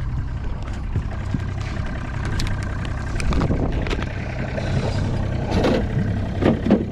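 Boat motor running steadily with a low drone as the fishing boat cruises, with a few brief irregular sounds over it in the second half.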